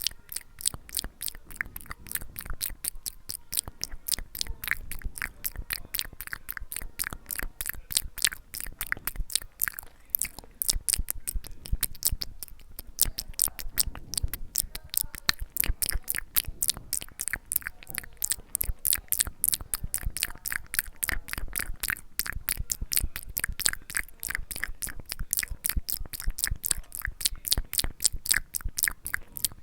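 ASMR mouth sounds: a continuous run of wet clicks and smacks, several a second.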